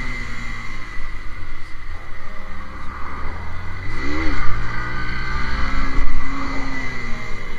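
A 150 cc motorcycle engine running, revved up and straight back down once about four seconds in.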